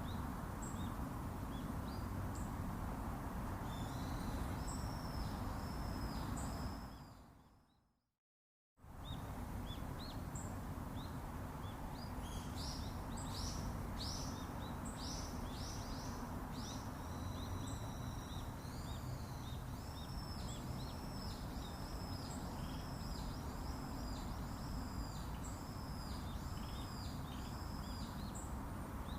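Birds calling outdoors, one singing strings of short repeated high notes, over steady background noise. The sound fades out to silence about seven seconds in and returns about a second later.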